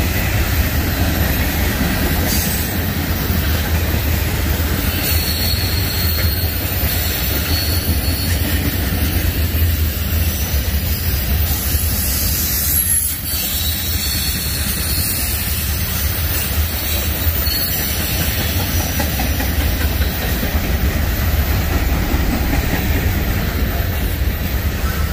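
Norfolk Southern freight train's cars rolling past on the rails: a steady, unbroken run of wheel-on-rail noise with a heavy low rumble.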